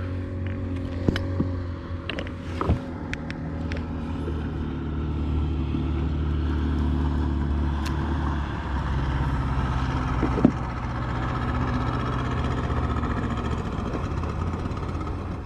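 A boat's engine running steadily, its pitch shifting a little a couple of times, with a few light clicks and knocks in the first seconds and one more later.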